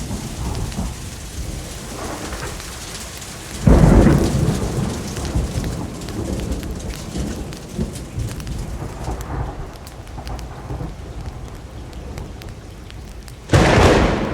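Steady rain with thunder; two sudden loud thunderclaps, one about four seconds in and one near the end, each dying away over a second or two.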